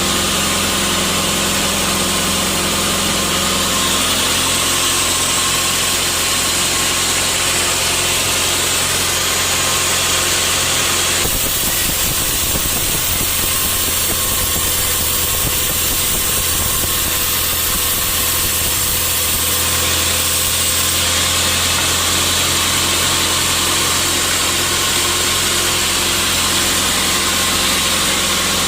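Sawmill machinery running steadily with a constant motor hum. For about ten seconds in the middle the sound turns brighter and hissier, then settles back.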